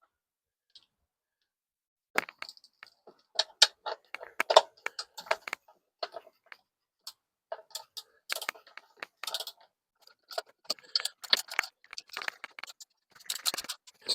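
Irregular metallic clicks and clinks of hand tools as the bolts of a Pinto engine's cam cover are tightened.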